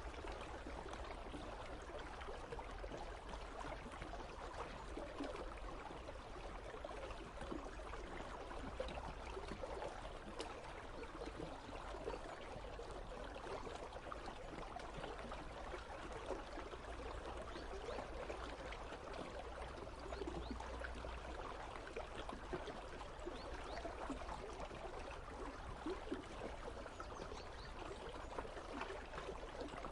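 Icy river running: a steady babble of flowing water with many small splashes and gurgles, and a low steady rumble underneath.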